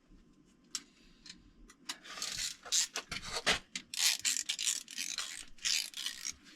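Hand ratchet wrench driving small 10 mm bolts into the engine. A few faint clicks come first, then from about two seconds in a quick run of short rasping strokes as the pawl ratchets on each back-swing.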